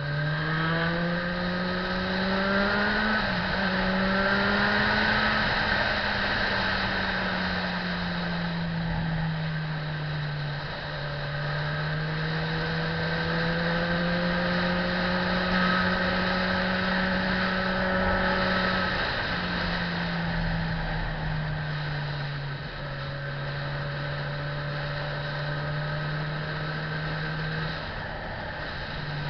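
Motorcycle engine running under way, its pitch rising and then dropping in steps several times as it shifts gears, over a steady rushing noise.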